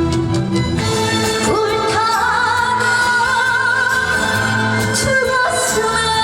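Korean trot song performed live: a woman sings over a band backing track, holding one long note with vibrato from about a second and a half in for about four seconds.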